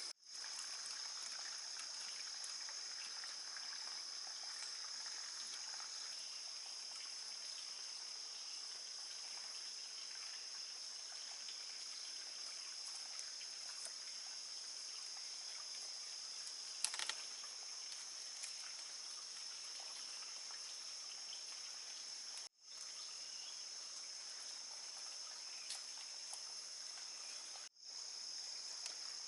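Steady, high continuous buzz of an insect chorus, with one short sharp knock about two-thirds of the way through. The sound cuts out briefly twice near the end.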